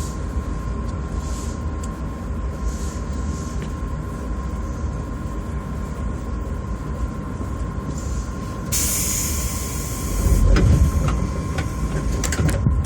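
Running noise of a commuter electric train heard from on board, with a steady rumble and a constant thin whine. About nine seconds in a burst of hiss lasts a second. The rumble then swells briefly and a few sharp clicks follow near the end.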